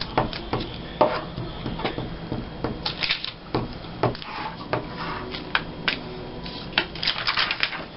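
Paper being handled and glued down: rustling and crinkling, with scattered light taps and clicks and a few short bursts of hissy rubbing.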